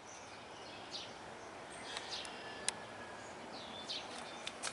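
Quiet outdoor background with a few faint bird chirps and one sharp click about two-thirds of a second before the middle.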